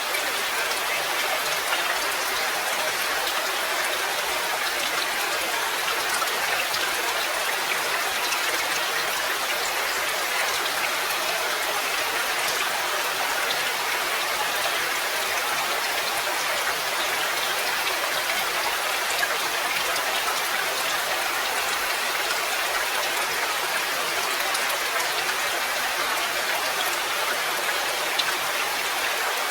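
Steady rain falling, an even hiss that neither builds nor eases.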